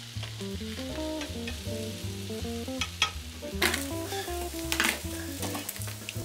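Onions sizzling as they sauté in a cast-iron skillet and are stirred, under background music with a plucked, stepping bass line. From about halfway, a few sharp knocks of a chef's knife chopping garlic on a wooden board.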